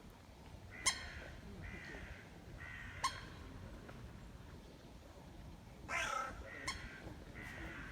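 Grey heron giving harsh, croaking calls. Two short, sharp calls about one and three seconds in are followed by a longer, rougher croak about six seconds in and a brief one just after.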